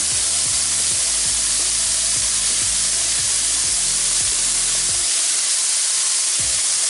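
Flour-dredged chicken wings frying in a pan of hot oil: a steady sizzle, with light clicks of metal tongs against the pan as the wings are moved in the first few seconds.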